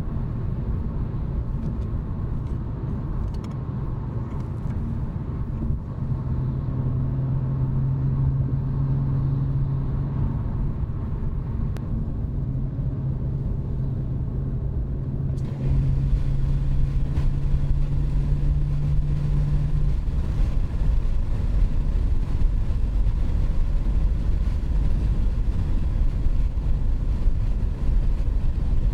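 A BMW 540i's B58 3.0-litre turbocharged inline-six with the muffler deleted, cruising at a steady speed: a constant low exhaust drone over road rumble. About halfway through, the sound abruptly steps up louder and rougher.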